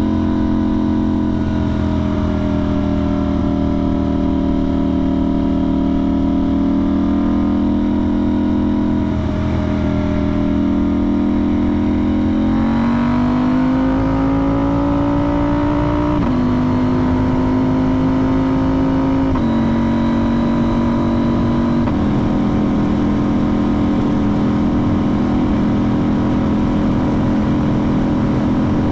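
KTM 990 Duke's parallel-twin engine running loud through a budget aftermarket exhaust with the sound box deleted, under way on the road. The revs climb about halfway through, then the note shifts in a few sudden steps.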